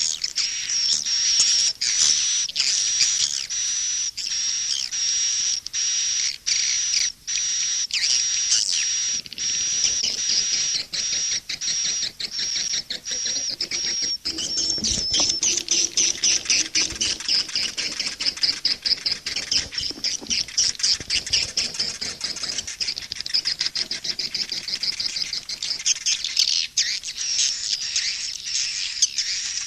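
Swiftlet calls from a swiftlet-farming lure track: dense, rapid, repeated twittering chirps. About halfway through, the chirping turns faster and denser.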